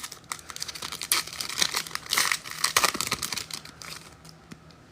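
Foil trading card pack wrapper being crinkled and torn open by hand, with irregular crackling and a few sharp clicks of cards being handled.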